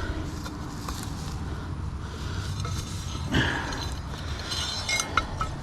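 Metal recovery rigging being handled: a short rustle, then a few sharp metallic clinks near the end, over a steady low rumble.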